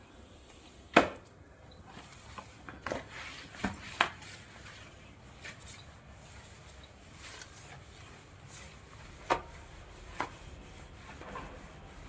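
Irregular knocks and clatters of household objects being handled, with short rubbing and scraping sounds in between; the loudest knock comes about a second in.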